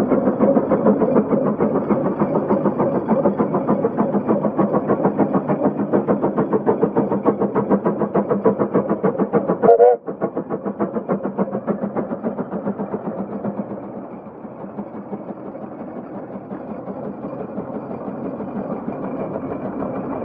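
Case 150 road locomotive steam traction engine working hard under load, its exhaust chuffing in a fast, even beat. A brief louder burst comes just before halfway. The beat grows quieter about two-thirds of the way through and then builds again.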